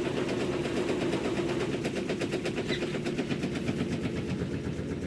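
Maytag top-load washer spinning fast, with a steady hum and a fast, even rattle. The rattle is the drain tube at the back, not tied down, shaking against the machine.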